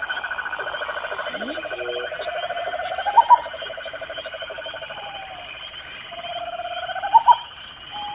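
Night chorus of crickets and frogs: the crickets keep up a steady, high-pitched ringing while frogs give long pulsed trills, some rising in pitch at their ends.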